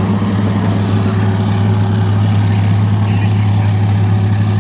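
A car engine idling steadily, loud and close, a deep even drone with no revving.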